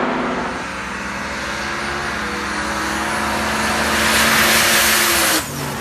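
Drag-racing car's engine running steadily. About four seconds in, a loud rushing noise builds, then cuts off suddenly as the engine pitch drops.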